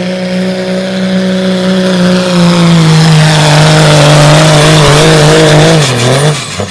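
Dodge pickup's Cummins diesel engine held wide open at high revs under full load in a truck pull, its pitch steady while a loud rush of noise builds. About six seconds in the revs drop and the sound falls away sharply as the throttle comes off.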